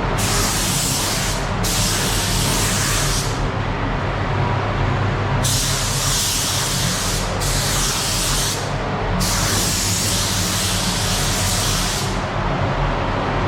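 Adhesion promoter being sprayed onto a plastic car bumper: five hissing spray passes, each one to three seconds long, with short gaps between them, over a steady low hum.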